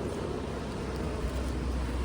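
Steady low rumble of a passing vehicle or road traffic, growing louder a little past halfway.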